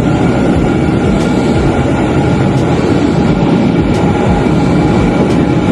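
Kintetsu 80000 series "Hinotori" limited express train running, a steady rumble of wheels on rail with faint ticks about every second and a half.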